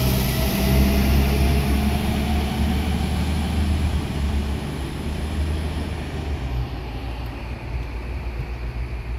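NI Railways diesel multiple unit passing and pulling away: a low engine hum and wheel-on-rail rush that fade steadily as the train recedes.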